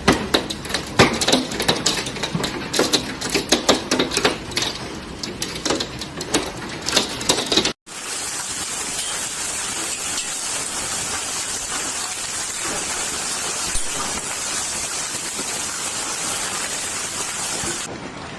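Hailstones clattering on hard surfaces, a dense, irregular rattle of many small impacts. After a sudden cut about eight seconds in, it gives way to the steady hiss of a heavy hail downpour.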